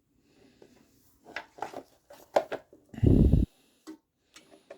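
Small metal parts of a small-engine carburetor clicking and clinking as they are handled, with a loud, short, low thump about three seconds in.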